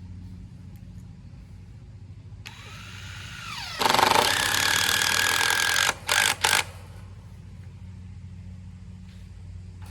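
Power drill driving a screw into wood: a brief spin-up about two and a half seconds in, then a continuous run of about two seconds, then two short bursts to seat the screw.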